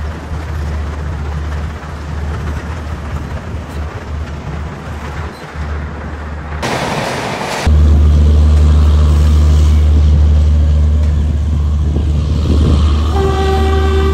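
Train running with a steady low rumble. About seven seconds in there is a brief rush of noise, after which the rumble is suddenly louder. Near the end a locomotive horn starts sounding one steady note.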